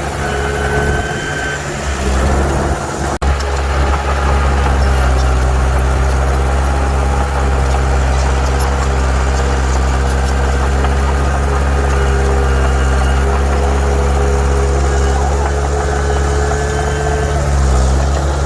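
Heavy diesel engine of earthmoving machinery running steadily, with a brief dropout about three seconds in.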